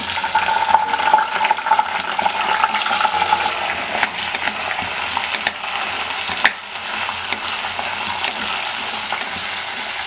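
Cut brinjal pieces sizzling in hot oil in a kadai, stirred with a wooden spatula that scrapes and taps against the pan now and then.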